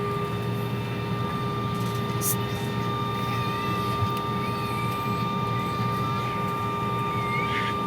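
Airliner cabin noise: the steady drone of the jet engines and air, a low rumble with a few constant hums and a whine over it. A brief click about two seconds in.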